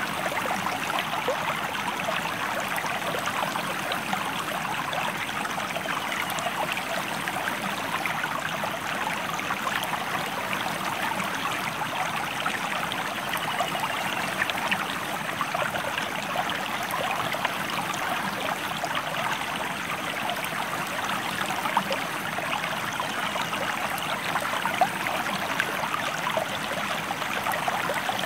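A stream flowing with a steady, even rush of water.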